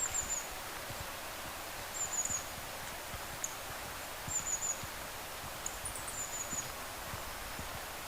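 A small bird gives short, thin, very high-pitched calls, each falling slightly, about every one to two seconds. Under them runs a steady hiss of outdoor background noise.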